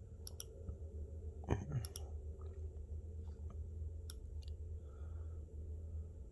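Computer mouse clicking several times, mostly in quick pairs, over a steady low hum. A short falling squeak about a second and a half in.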